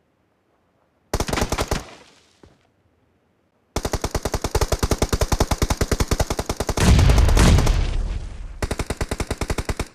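Video game automatic gunfire, roughly a dozen shots a second. A short burst comes about a second in, then a long sustained burst starts at about four seconds, with a loud low thud under it around seven seconds, and a final burst cuts off near the end.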